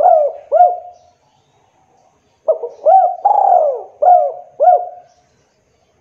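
Spotted dove cooing. One phrase ends in the first second, and a full phrase of about five coos follows from about two and a half seconds in, its middle coo the longest and falling in pitch.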